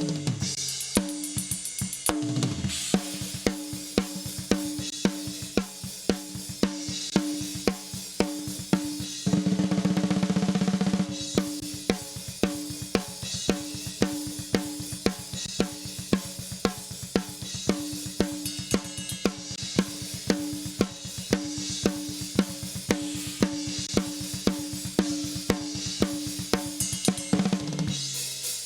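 Compressed thrash metal drum kit recording, with kick, snare, hi-hat and cymbals playing a steady beat and the snare hitting about twice a second. Around a third of the way in there is a louder, denser run of rapid hits for about two seconds.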